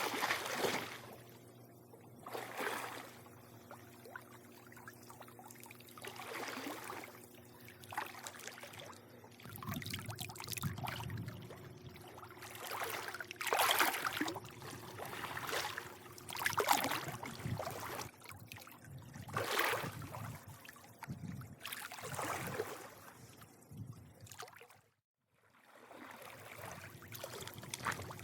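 Swimming-pool water lapping and sloshing in irregular swells, with small splashes, over a faint steady hum. The sound drops out for a moment near the end.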